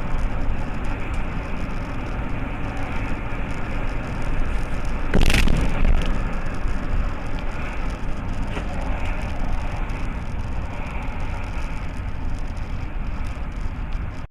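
Steady road and engine rumble of a car, picked up by a dashcam. About five seconds in it is broken by a single short, loud bang of a collision.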